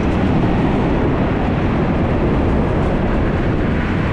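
125cc dirt bike being ridden on a dirt road: steady engine, wind and tyre noise with no clear change in level. It comes just before the engine cuts out, which the rider later traces to a spark plug wire melted against the exhaust.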